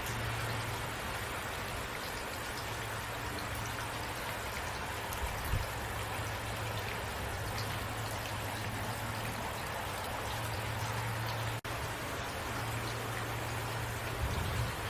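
Steady rainfall: an even hiss of falling rain with a low hum underneath that fades in and out. The sound cuts out for an instant about two thirds of the way through.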